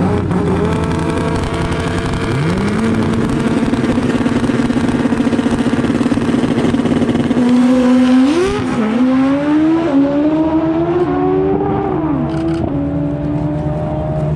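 Pro Street drag-racing motorcycle engine revved up about two seconds in and held at a steady high rev. About seven seconds in it launches and accelerates through the gears, its pitch climbing and dropping back at each of about four shifts. Another engine idles steadily underneath.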